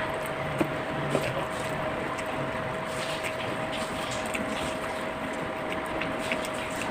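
A steady whirring hum with an even hiss and one constant tone, joined by a few faint, short clicks, the clearest about half a second and a second in.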